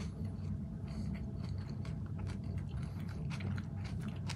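A person chewing a mouthful of quinoa and chickpea salad with mouth closed: small soft clicks and crackles over a steady low hum.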